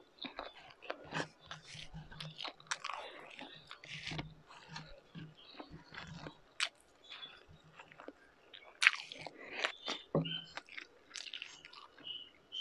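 A person chewing and smacking while eating beef tapa, pork tocino and rice by hand, in a steady run of short wet clicks and smacks; one sharper smack comes about nine seconds in.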